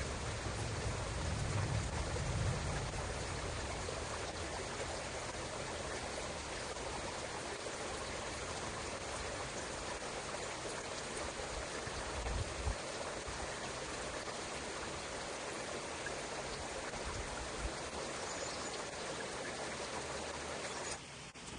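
Running water of a stream, flowing steadily, with a low rumble in the first few seconds; it cuts off abruptly near the end.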